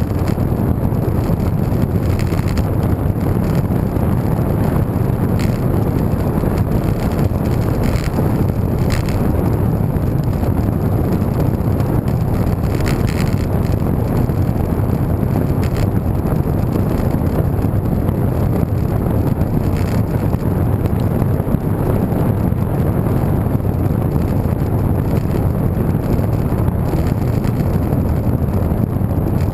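Steady wind noise rushing over the microphone of a camera carried on a moving bicycle, low and rumbling.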